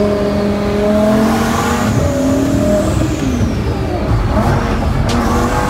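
Twin-turbo Lamborghini Huracán's V10 engine pulling under acceleration, heard from inside the cabin; its pitch climbs slightly, then drops about three seconds in and carries on.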